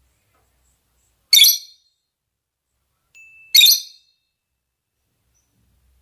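Lovebird giving two short, shrill, high calls about two seconds apart, with silence between: mating calls.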